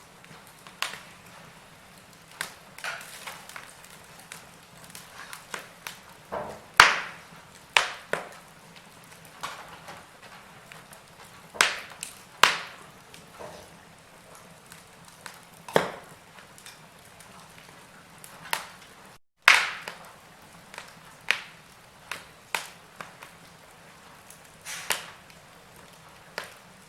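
Wood fire crackling in a fireplace: irregular sharp pops and snaps of varying loudness over a faint steady hiss. The sound cuts out for a moment about two-thirds of the way through.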